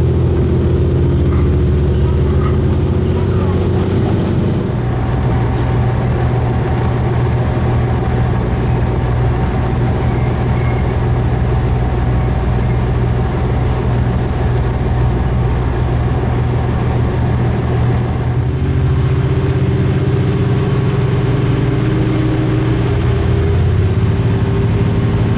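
Diesel railcar running on the line, a steady engine and running sound whose engine note changes about five seconds in and again a little past the middle.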